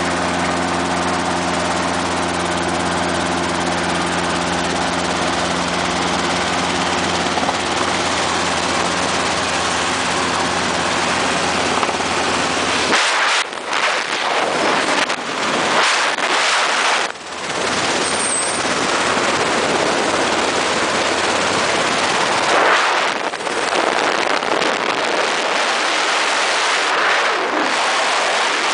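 Robinson R22 helicopter running at a steady pitch, its engine and rotor tones even and unchanging. About thirteen seconds in, the low tones cut off abruptly, leaving a rushing noise that swells and dips.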